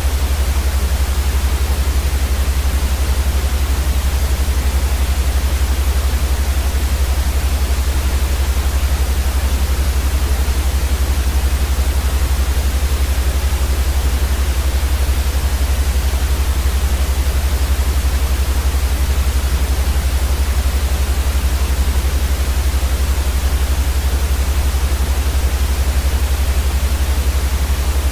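Steady, unchanging white noise, an even hiss across the whole range, with a louder deep rumble underneath.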